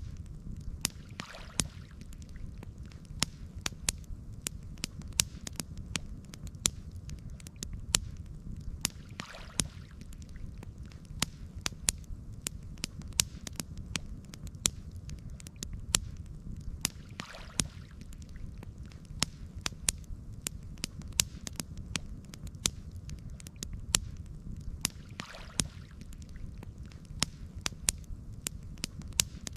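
Campfire crackling, with frequent sharp pops and snaps over a low, steady rumble. A faint swish comes back about every eight seconds.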